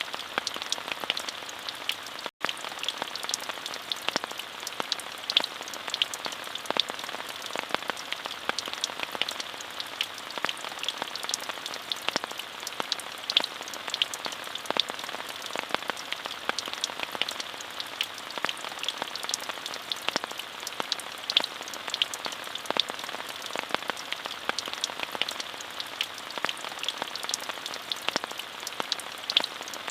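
Steady rain falling, an even hiss dotted with many separate drop ticks. The sound cuts out for a split second about two seconds in.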